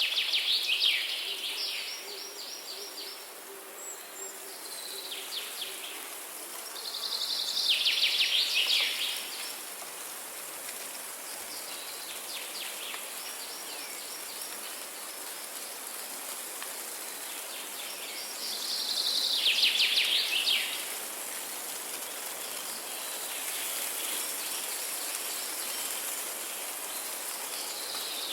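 Songbirds singing: one bird repeats a loud, fast trilled phrase four times, with quieter trills from other birds between, over a steady high hiss.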